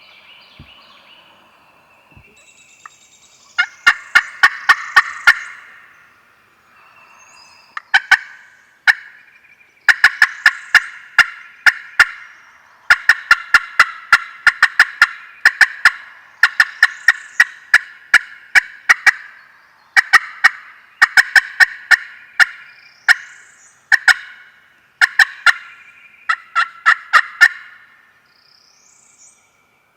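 Wild turkey gobblers gobbling close by, loud, over and over: eight or so rattling gobbles in quick succession, some overlapping one another.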